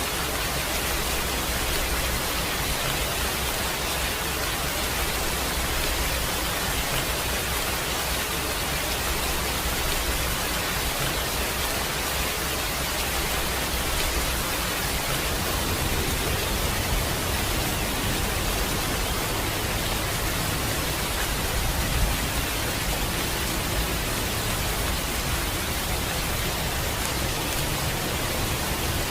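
Steady rain falling, an even, dense hiss with no letup.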